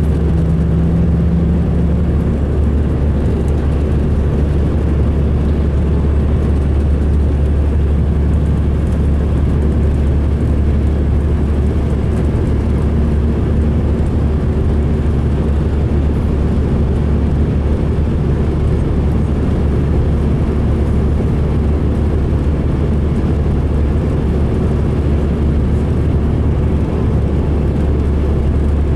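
Steady low rumble of a 2005 MCI D4500 coach's diesel engine and drivetrain while the coach is running, a running sound the rider calls rough.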